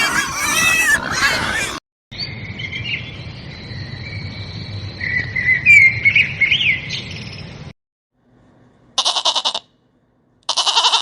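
A succession of animal calls. A bird chirps and calls with thin high notes and quick rising glides, and near the end come two short, rapidly pulsed bleats.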